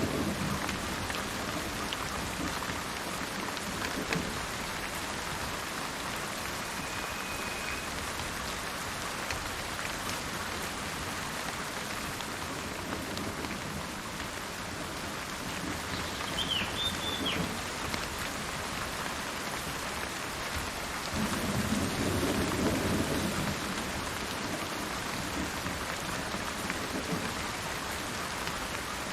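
Steady rain falling, with thunder rumbling low at the start and again about two-thirds of the way in. A bird chirps briefly in the middle.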